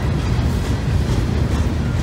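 Loaded gondola cars of a unit steel train rolling over a steel trestle: a steady deep rumble with a few faint wheel clicks.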